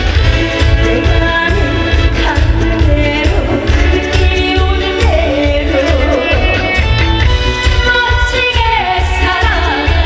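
Trot song: a woman singing the melody over band accompaniment with a steady, heavy bass beat.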